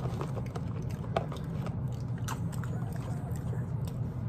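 Close-up chewing and mouth sounds of someone eating, with scattered small clicks, over a steady low hum.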